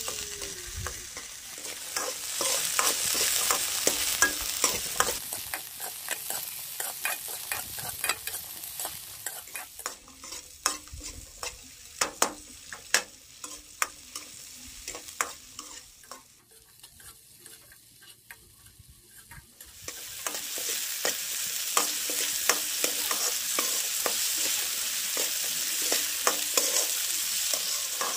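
Halved karonda berries sizzling as they fry in an aluminium kadai, with a steel spoon clicking and scraping against the pan as they are stirred. The sizzle and clicks drop away for a few seconds past the middle, then come back louder.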